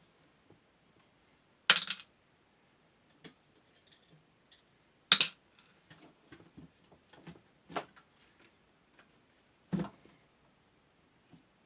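Scattered clicks and clacks of small metal and plastic fan parts and tools being handled while a small desk fan is taken apart. There are four louder sharp clacks spread through, with faint ticks between them.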